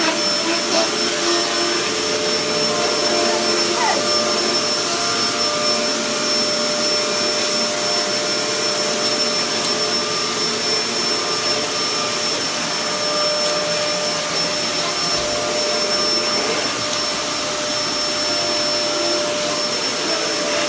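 Hoover Dust Manager 2000-watt vacuum cleaner running steadily at full power: a constant rush of air with a thin high-pitched whine from the motor.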